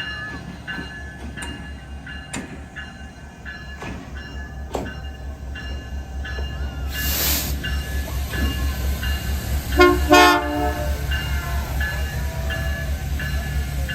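Diesel locomotive of the CP Christmas Train rumbling steadily, with a bell ringing about once a second. A burst of hiss comes about seven seconds in, and a short, loud horn blast about ten seconds in.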